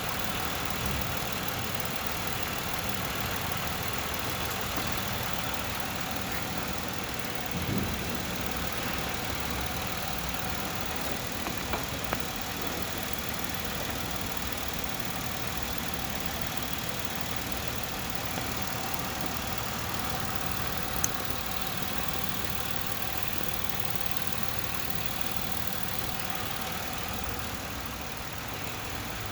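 A car engine idling steadily, with a few faint clicks and knocks now and then.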